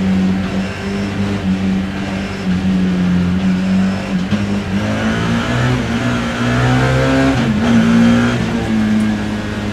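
BMW E30 M3 race car's four-cylinder engine heard from the cockpit under racing load on a wet track. Its pitch climbs from about halfway in, then dips sharply for a moment, as at a gear change, before pulling on.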